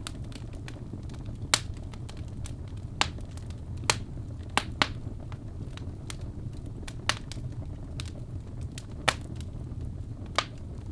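Wood fire burning in a fireplace: a steady low rumble under small crackles, with about eight sharp pops at irregular intervals.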